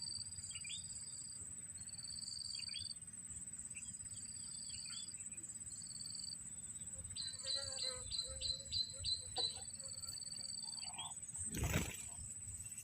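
Insects trilling steadily in two high, pulsing tones, with small birds chirping here and there; about halfway through a bird gives a quick run of about six repeated calls. A brief loud noise cuts in near the end.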